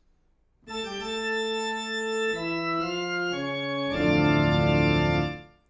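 Sampled pipe organ from the Bismark bs-16i app, played on a keyboard. Held notes step down in pitch a couple of times, then a louder full chord is held for over a second and cut off sharply.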